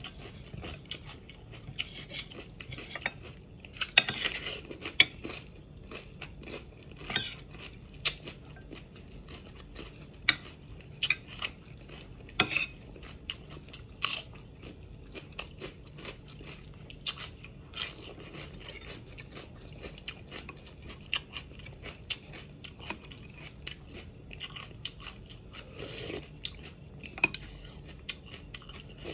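Crunching and chewing of raw green bell pepper: many short, crisp crunches at an irregular pace, a few bites much louder than the rest.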